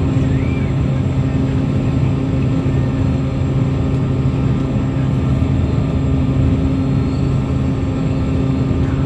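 Steady loud drone of the Toppy 2 jetfoil's gas-turbine and waterjet propulsion at a constant pitch, a low hum with a higher tone above it.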